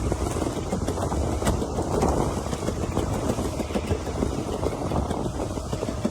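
Steady rumble of a vehicle on the move, with wind noise on the microphone.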